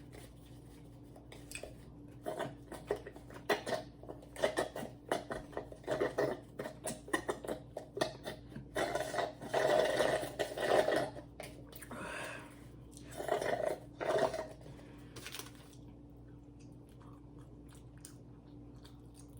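A person chewing and biting food close to the microphone, a run of irregular short mouth clicks and smacks that thins out after about fifteen seconds.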